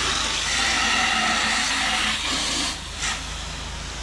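Pressure washer wand spraying, a loud steady hiss of water over the constant hum of the machine's engine; the spray eases a little under three seconds in.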